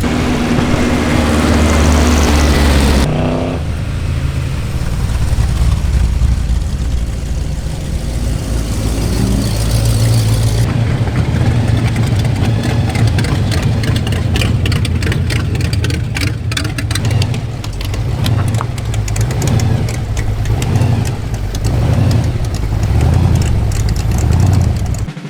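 Car engines running loudly at idle with some revving, in what sound like a few separate clips that change abruptly about three seconds in and again near eleven seconds.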